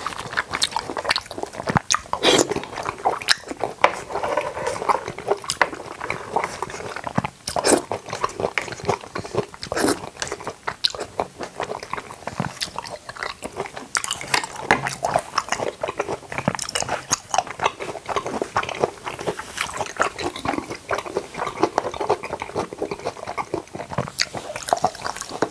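Close-miked chewing with dense, sharp crunching, as of ice chips being crunched between the teeth.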